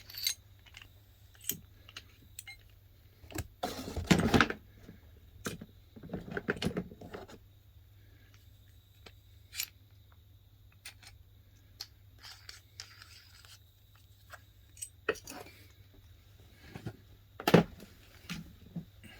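Metal tools and parts being handled: scattered clicks and clatter, with a louder knock about four seconds in and another near the end.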